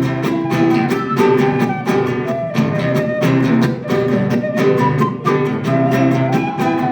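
Guitar music, mostly acoustic: a steady run of plucked and strummed notes with a melody line stepping above them.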